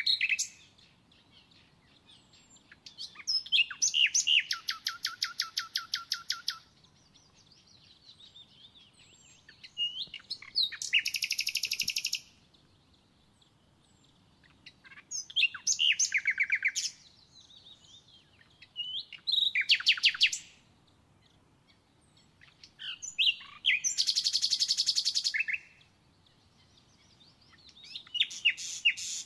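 A songbird singing close by, repeating a short phrase of rapid trilled notes every four to five seconds.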